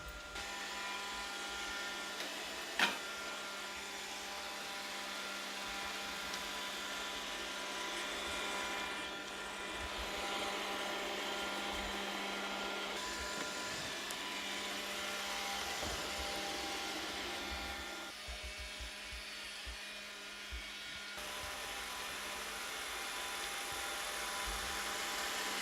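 Roomba robot vacuum running: a steady motor whine and brush whir, with a sharp click about three seconds in and scattered low knocks through the middle.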